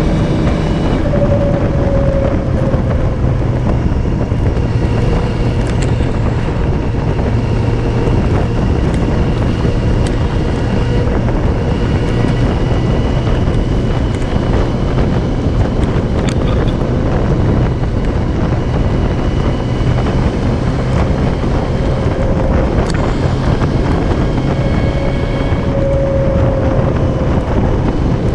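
Yamaha Fazer 600 motorcycle's inline-four engine running at a steady cruise, its tone drifting slightly, under heavy wind rush on the bike-mounted camera's microphone.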